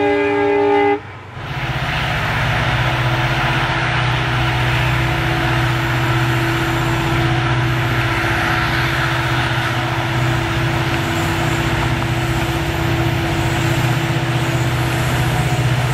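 A train horn sounds and breaks off about a second in. Then a diesel locomotive's engine runs with a steady, heavy drone and a constant hum under a rushing hiss.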